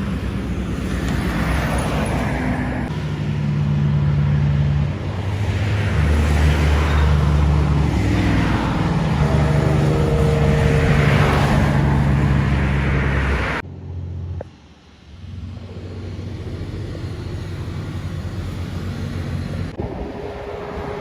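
A motor vehicle engine running with swells of road noise. About two thirds of the way through, the sound cuts abruptly to a quieter, steady engine hum.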